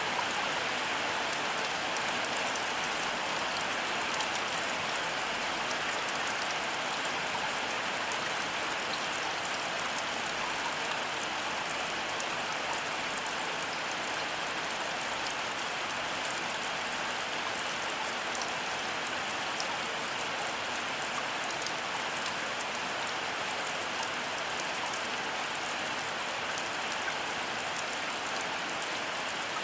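Heavy rain falling steadily, a dense even hiss flecked with the ticks of single drops.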